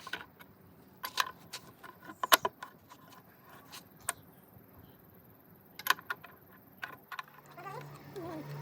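Scattered metallic clinks and taps of tools and engine parts being handled, the loudest about two and a half seconds in. Near the end a steady low hum starts.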